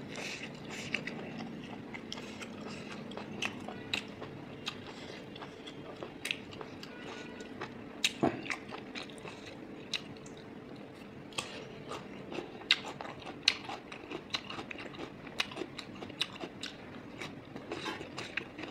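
Close-miked mouth eating sounds: chewing and biting a hand-fed mouthful of pork intestine, rice and raw cucumber, with irregular sharp clicks and crunches, the loudest a pair about eight seconds in.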